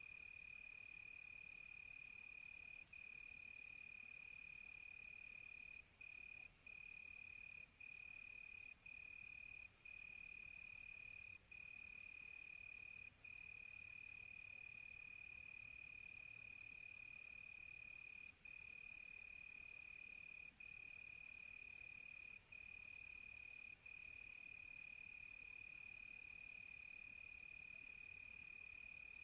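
A cricket trilling steadily at one high pitch, broken only by a few momentary gaps, over a faint high hiss.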